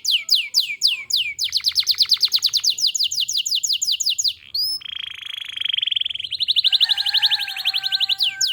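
Domestic canary singing a long, varied song. It moves through spaced falling notes, a fast trill, a buzzy rolling passage about five seconds in, then another rapid trill with lower steady tones under it near the end.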